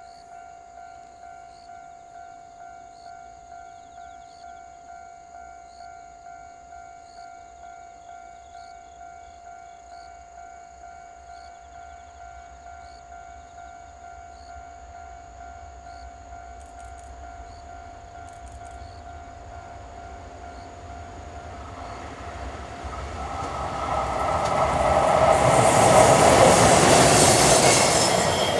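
JR Freight EH500 electric locomotive and its container wagons approaching, then passing close: the train noise is faint at first, builds from about two-thirds in and is loudest near the end. Before that a faint steady tone pulses about twice a second.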